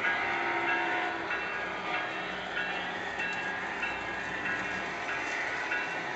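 Model railroad train running, its sound system playing steady locomotive and rail noise.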